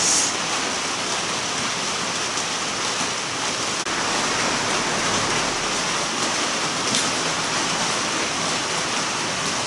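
Steady hiss of rain falling. A brief sharp sound comes right at the start, and there is a momentary drop a little under four seconds in.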